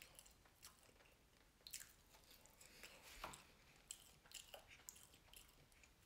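Faint, close-up chewing of ketchup-covered French fries: soft wet mouth clicks and smacks, scattered irregularly.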